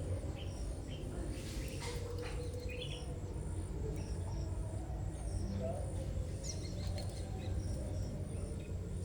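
Small caged birds giving scattered short chirps, over a high pulsing that repeats about twice a second and a low steady hum.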